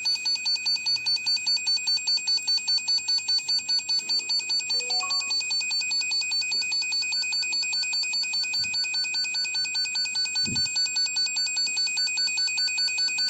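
Wire tracer receiver sounding a steady high electronic beep that pulses rapidly, about five times a second, as it is swept along a wall to locate a buried wire and junction box. A single brief knock is heard near the end.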